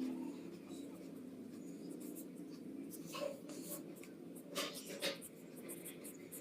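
Pencil scratching on paper in short drawing strokes, a few sharper ones about three and five seconds in, over a low steady hum.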